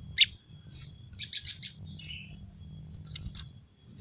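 Prenjak lumut (a prinia) calling its typical sharp 'ceng-ceng' chirps: one loud chirp at the start, a quick run of about four a second later, and another short cluster near the end.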